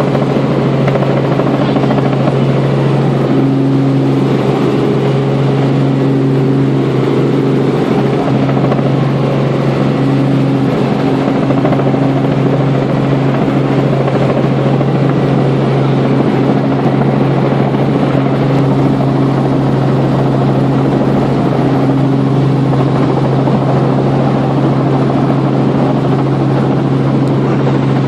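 Helicopter in flight: a loud, steady drone of engine and rotors with a low hum that holds constant pitch.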